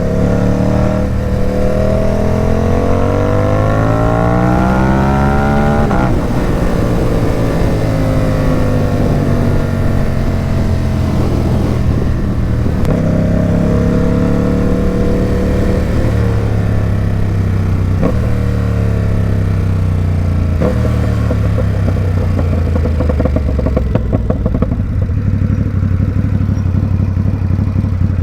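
Ducati Supersport 950 S's 937 cc L-twin engine through a Competition Werkes aftermarket exhaust, ridden under way: it pulls up with a rising pitch for several seconds, drops sharply at a gear change about six seconds in, and winds down. It then pulls up again through a few more gear changes before settling into a low, crackly rumble near the end.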